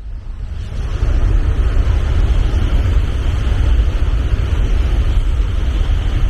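A train passing close by: a loud, steady rumble and rush of running noise that swells up about a second in and holds.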